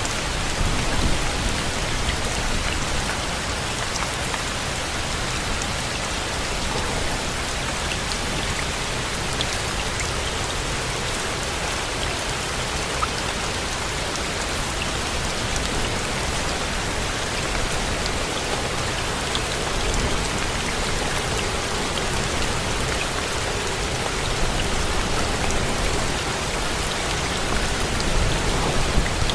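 Steady rain, an even hiss with scattered drops ticking through it.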